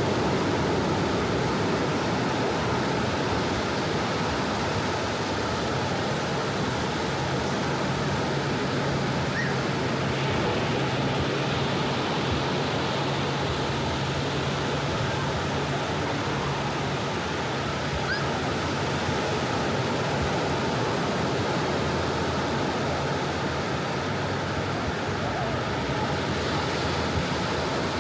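Soft ocean waves washing on a beach, a steady wash of surf with no distinct breaking crashes.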